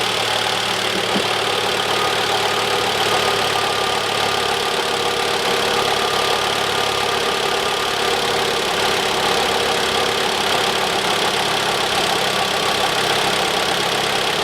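Freshly rebuilt Mitsubishi 4B10 1.8-litre four-cylinder engine idling steadily on its first run after an overhaul, held at raised warm-up revs.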